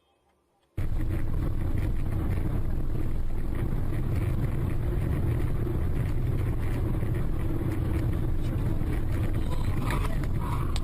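Steady low rumble of a moving car's engine and road noise, heard from inside the cabin. It cuts in abruptly under a second in, after near silence.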